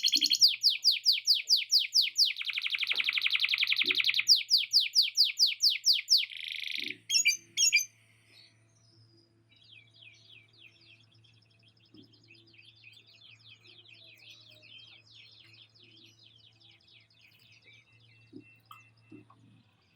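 Male canary singing loud, fast rolls of rapidly repeated high notes; after about seven seconds the song stops and only faint twittering remains.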